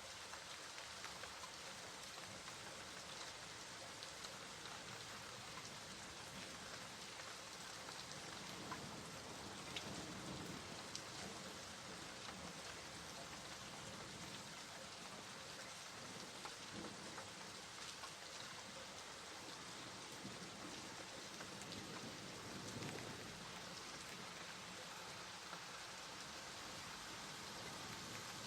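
Steady rain falling on a surface, a constant hiss scattered with small drop ticks.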